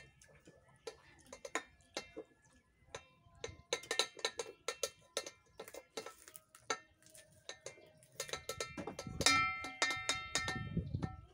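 Close-up chewing of raw leafy vegetables, with many crisp crunches and wet mouth clicks. About eight seconds in, steady bell-like ringing tones come in alongside the chewing.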